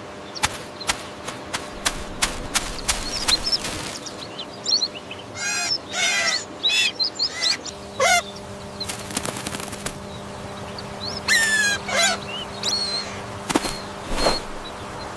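Birds calling, with honking calls and short chirps, amid wing flaps and many sharp clicks over a faint steady hum.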